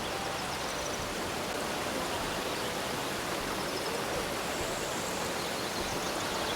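A steady, even rushing noise with no distinct tone or rhythm.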